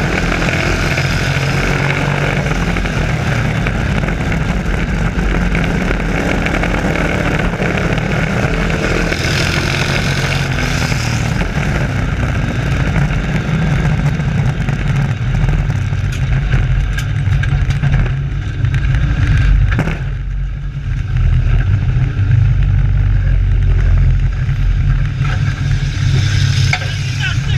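Race trucks' engines running at racing speed, a loud continuous engine drone with a short dip about twenty seconds in.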